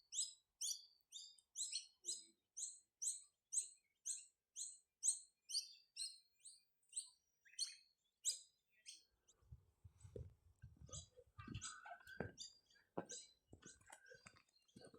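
A small bird calling a short, high chirp over and over, about two a second, for roughly the first eight seconds. After that come irregular clicks, knocks and rustling.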